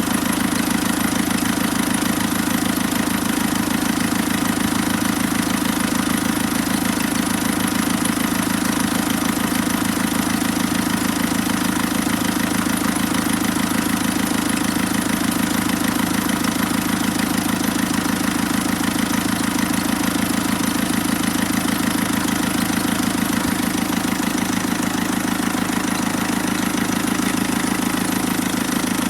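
Caterpillar 3054 four-cylinder diesel engine idling steadily.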